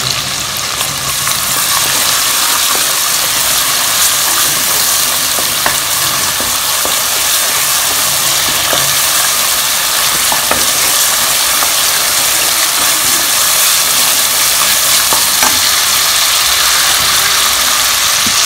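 Ginger-garlic paste and ground spice paste sizzling steadily in hot oil and ghee in a pressure cooker pan, stirred now and then with a wooden spatula.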